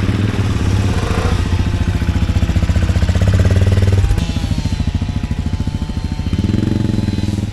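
Motorcycle engine, an AJP PR7 single-cylinder, running with a rapid steady pulse. Its note shifts about four seconds in as the bike gets under way.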